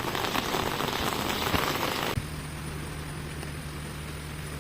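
Heavy rain falling, an even hiss, for about two seconds, then it cuts off abruptly to a quieter steady low hum.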